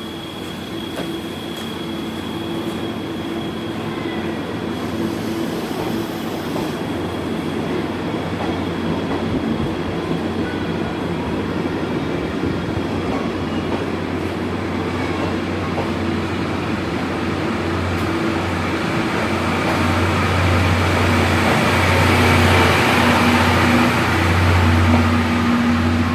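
Steam-hauled SL Paleo Express train pulling out of the station, its rumbling and the clatter of its wheels growing steadily louder as it comes by.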